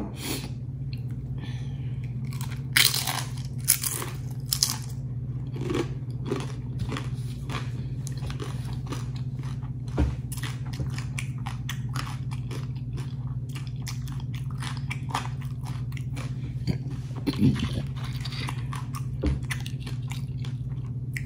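A person biting and chewing crisp fried tortilla chips: repeated crunches, with a few louder bites, over a steady low hum.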